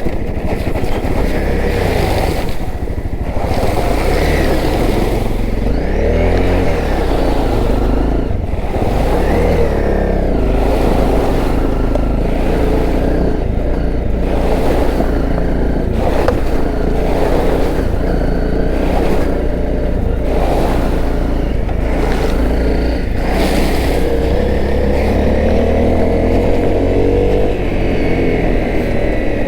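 Honda CRF250L's single-cylinder four-stroke engine running under way, its revs rising and falling again and again, with a steady low rumble underneath.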